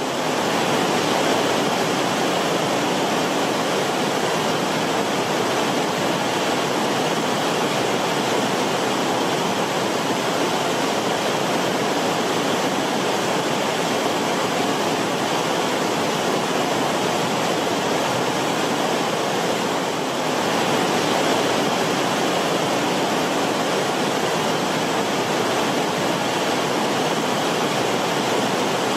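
Creek water flowing and bubbling over rocks in a shallow creek bed, a steady rippling rush.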